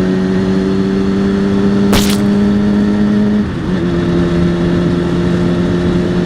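Motorcycle engine running at a steady high speed on the move, its pitch dipping and settling a little lower just past halfway as the revs drop. There is a single sharp click about two seconds in.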